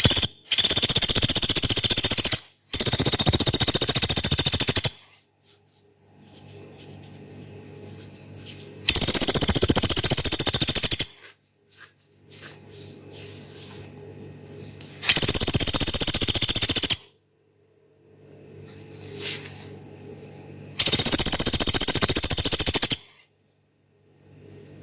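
Pelatuk beras, a small pygmy woodpecker, giving five long, rough, rapid rattling trills of about two seconds each, the first two almost back to back and the rest spaced a few seconds apart. A faint low hum lies between the calls.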